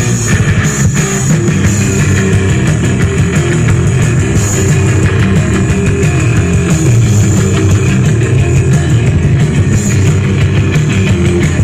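Live rock band playing loud, dense music with drums, with no singing.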